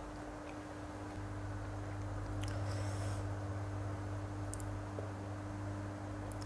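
Quiet eating sounds: faint chewing with a few soft mouth clicks and small wet squishes, over a steady low hum.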